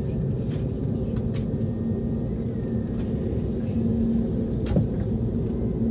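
Steady low rumble inside the cabin of an Airbus A321neo on the ground before takeoff, with a faint steady hum and a couple of light clicks.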